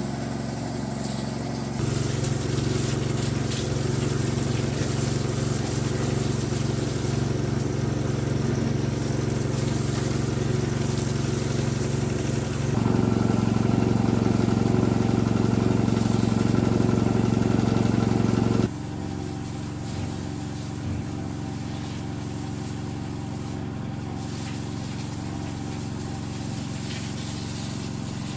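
A steady motor or engine running. It gets louder abruptly about 2 s in and again about halfway through, then drops sharply quieter about two-thirds of the way through.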